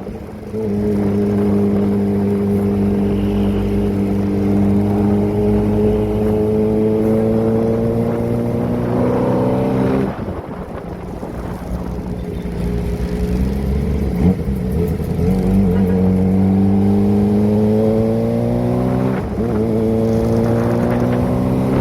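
Kawasaki ZX-25R's 249 cc inline-four running through a Prospeed aftermarket exhaust while being ridden: the engine pitch climbs steadily under throttle, drops away about ten seconds in, then climbs again with a short break near the end like a gear change.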